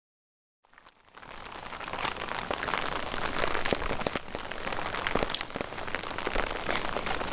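Steady rain falling, a dense hiss with many sharp drop ticks close by. It opens with a moment of dead silence, then the rain fades in over about a second.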